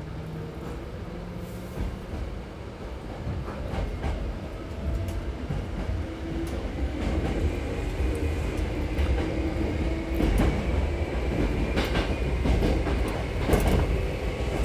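Hankyu 6300 series electric train running, heard from inside the car: a steady low rumble with a motor whine slowly rising in pitch as it gathers speed. Wheels knock over rail joints now and then, more often and louder in the second half.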